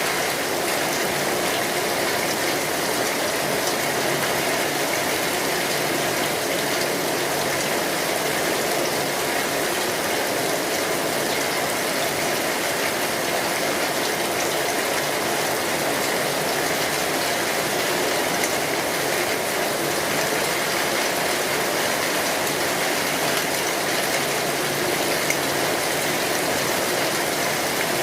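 Steady rain falling on a metal roof, an even, unbroken hiss with no let-up. Two faint, brief pops stand out, about two-thirds of the way through and near the end.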